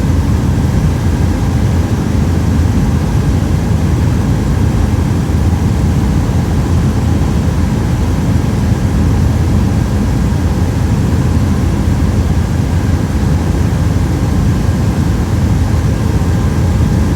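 Helicopter in flight: its engine and rotor give a loud, steady drone, deep and unchanging, with a faint steady whine above it.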